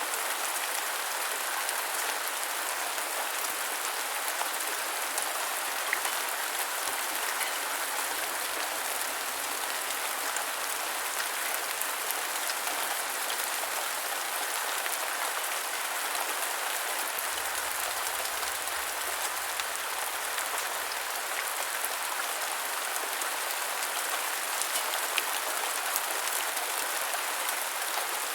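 Steady rain falling on a hard surface, an even hiss dotted with the small ticks of individual drops.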